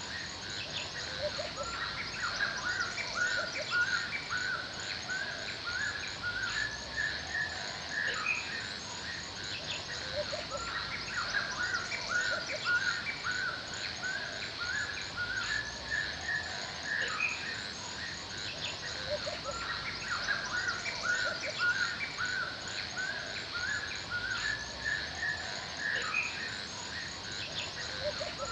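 Forest ambience: several birds singing and calling in short repeated chirps, over a steady high hiss with a fast, continuous run of very high chirps.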